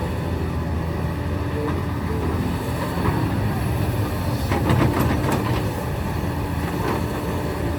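Excavator's diesel engine running steadily with a low drone, and a short burst of sharp clanks and scrapes a little past the middle as the machine works the limestone.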